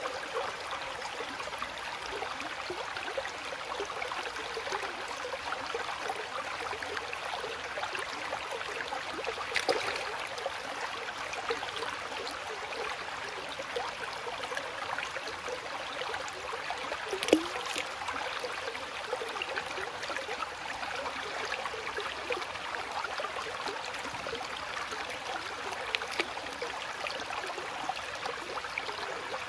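Flowing water trickling and gurgling steadily, with a few brief louder plops; the loudest comes just past the middle.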